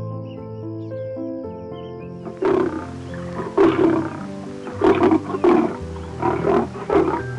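Big cat roaring over background music with sustained keyboard-like notes. The roars start about two and a half seconds in as a run of short, loud calls, roughly two a second.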